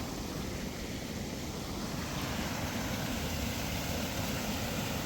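Steady rushing of water at a small waterfall, an even noise without pauses.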